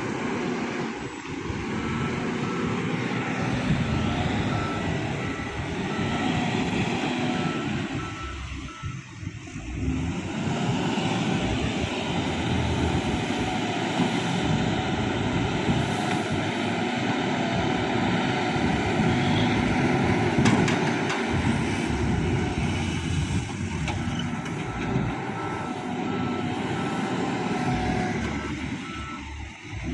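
Diesel dump truck engine running steadily while its reversing beeper sounds in repeated beeps, in several stretches as the truck backs up.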